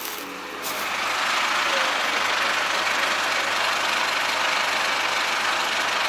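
MAZ-5440 truck's diesel engine running steadily, heard close up at the open engine bay under the tilted cab. It gets much louder about a second in.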